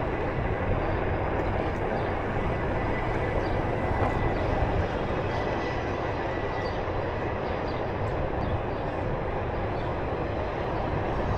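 Onewheel electric board rolling along, its tyre rumbling steadily over the ground with wind on the microphone and a faint steady high whine that fades out about seven seconds in.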